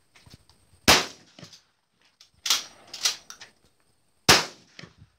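Shotgun shots fired at clay targets: two loud reports about three and a half seconds apart, with two lighter sharp cracks in between.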